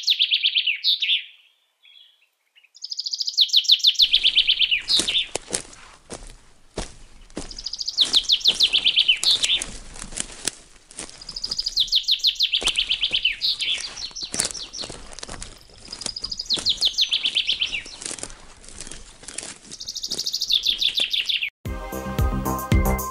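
A songbird singing a short, fast trilled phrase, falling slightly in pitch, repeated about every four seconds. Music with a beat comes in near the end.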